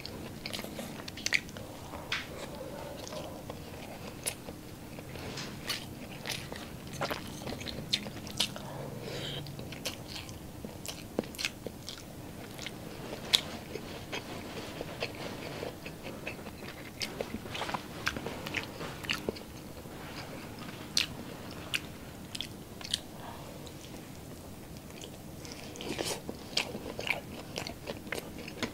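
A person chewing and biting grilled skewered street food such as pork barbecue and chicken or pork intestine. Short wet mouth clicks and crunches come irregularly throughout, over a faint steady hum.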